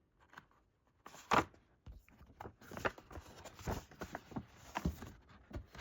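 A large paper poster being handled and unfolded: crinkling and rustling paper with light crackles, after a single sharp tap about a second and a half in.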